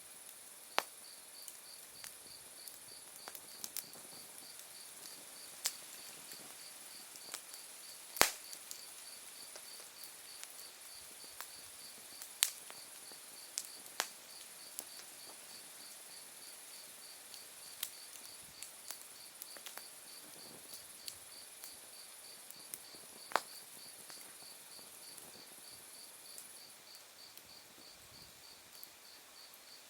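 Open wood fire burned down to embers, giving scattered sharp pops and crackles from the wood, the loudest about eight seconds in. Autumn crickets sing throughout: a steady high trill that stops near the end, and a chirp repeating about twice a second.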